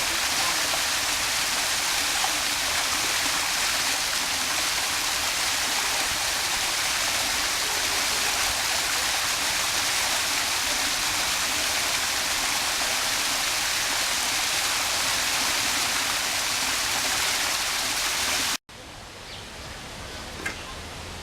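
Steady rush of falling water, a waterfall, that cuts off suddenly near the end. A much quieter open-air background follows, with a faint bird chirp or two.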